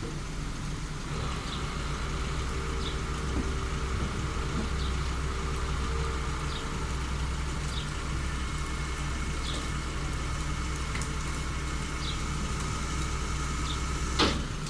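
Vehicle engine idling steadily, with a faint tick about every second and a half and a sharp click near the end.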